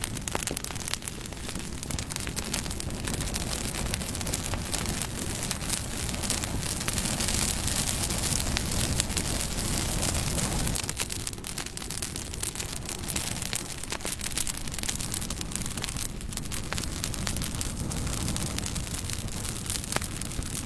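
Campfire burning: a steady rush of flames scattered with many small, sharp crackles and pops, swelling louder for a few seconds in the middle.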